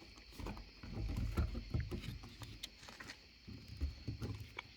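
Irregular clicks, knocks and low thumps of hands working a fuel pump assembly into a fuel tank, with the pump not yet seated or hooked in properly.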